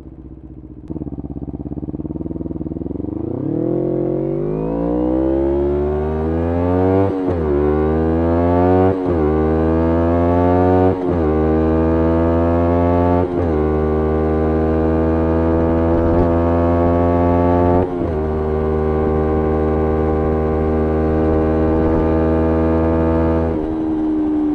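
2011 Kawasaki Ninja 250R's parallel-twin engine through a full Graves racing exhaust, accelerating hard: the revs climb, and four quick upshifts about two seconds apart each drop the pitch sharply. It then holds a steady cruise, with one brief lift of the throttle, and eases off near the end.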